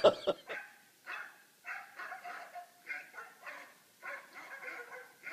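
Dogs barking and yipping in short bursts, repeated irregularly about twice a second.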